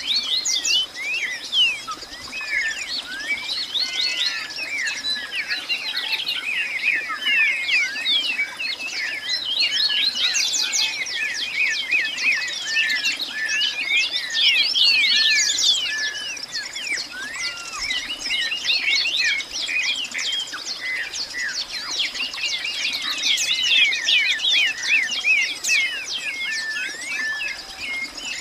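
Many birds chirping at once in a dense, continuous chorus of short rapid calls, with a thin steady high tone underneath.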